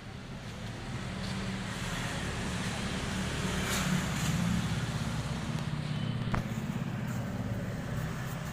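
An engine running steadily, growing louder over the first few seconds and then holding level, with a single sharp click about six seconds in.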